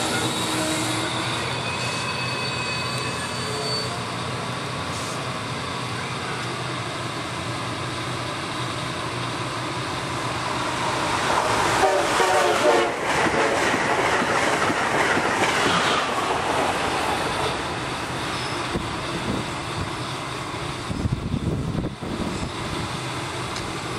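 Amtrak Acela Express high-speed trainset passing at speed on the far track, swelling to its loudest between about 11 and 16 seconds, over a steady background rumble from the MARC commuter train standing at the platform.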